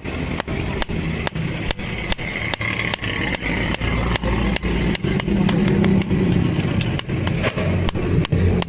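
Hand hammer striking iron on an anvil in an even rhythm of about two blows a second, each a sharp metallic strike, over a steady low rumble.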